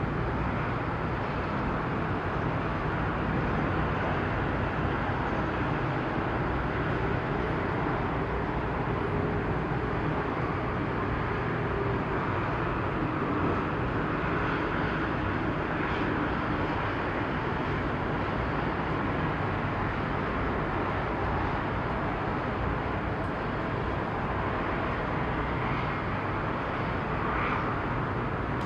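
Steady low engine drone with a broad rumble under it, of the ship or attending tugboat engines running at the quay; it holds even with no sudden sounds.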